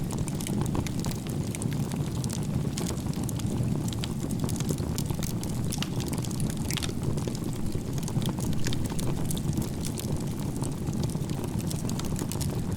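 Wood campfire of crisscross-stacked (igeta-gumi) firewood burning, with a steady low rush under frequent sharp crackles and pops.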